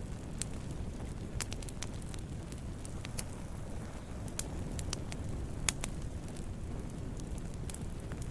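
Wood campfire burning with a steady low rumble and irregular sharp crackles and pops, the loudest pop a little past halfway.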